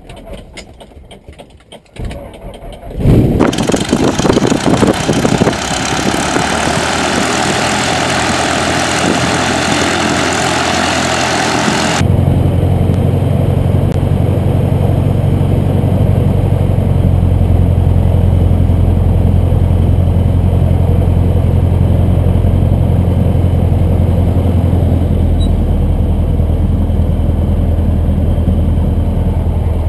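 Cessna 150's Continental O-200 four-cylinder engine being started: it catches about three seconds in and runs loudly. About twelve seconds in the sound abruptly turns muffled, leaving a steady low drone.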